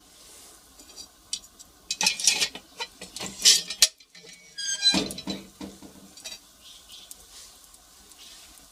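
Firewood fire with sharp cracks and clatter: a dense run of loud knocks and pops about two to four seconds in, another loud burst around five seconds, then only faint scattered crackles.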